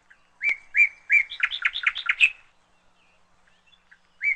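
A songbird singing a clear phrase: three even whistled notes followed by a quicker run of about half a dozen rising notes. The phrase starts again near the end.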